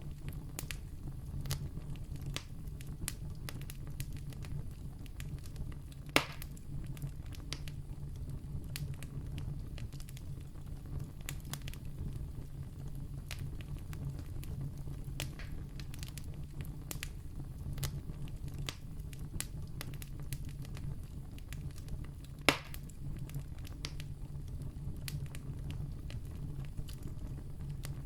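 Wood campfire burning, with a steady low rumble of flame and frequent small crackles. Two sharp, loud pops stand out, one about six seconds in and another about sixteen seconds later.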